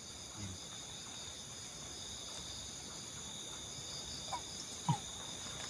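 Steady chorus of forest insects, a shrill drone at several high pitches, with two faint short sounds about four to five seconds in.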